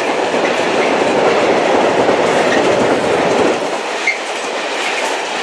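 Freight train rolling through the station at speed: a continuous clatter of wagon wheels on the rails, easing a little after about three and a half seconds, with a few brief high wheel squeaks.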